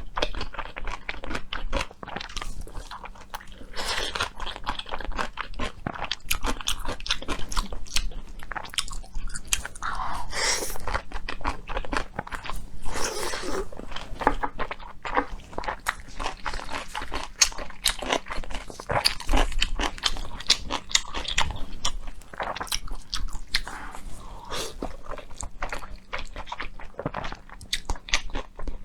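Close-miked chewing and crunching as someone eats spicy instant noodles rolled in a thin flatbread wrap, with many sharp, irregular crunchy bites and wet chewing throughout.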